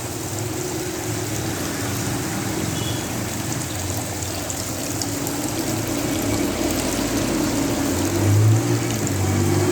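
Water running and splashing steadily from a small home waterfall fountain. A low hum sits underneath and grows louder near the end.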